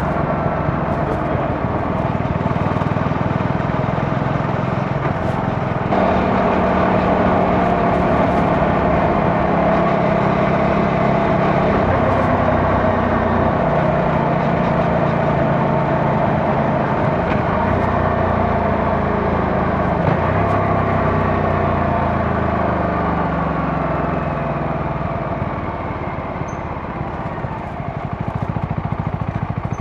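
CFMoto 250NK single-cylinder motorcycle engine running under way, its pitch rising and falling with throttle and gear changes, then dropping steadily as the bike slows over the last several seconds.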